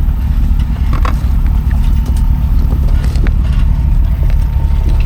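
Diesel engine of a heavy tow truck running steadily at low speed under load during a slow off-road tow, with a few light knocks and clicks over the top.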